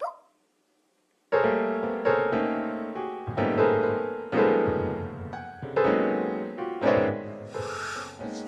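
Slow, sad piano music that begins about a second in: chords struck in an even rhythm, each ringing and fading away.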